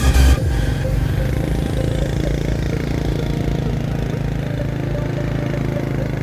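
Electronic music cuts off a moment in, leaving a motorcycle engine running steadily while riding, with an even low drone.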